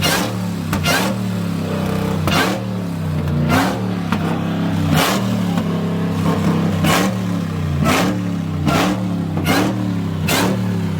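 Car engine held running and blipped over and over, with sharp pops about once a second.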